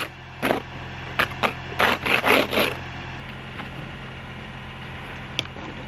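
An ice scraper scraping snow and ice off a car in about half a dozen quick strokes during the first three seconds, over the steady low hum of the car's engine idling, which goes on alone after the scraping stops.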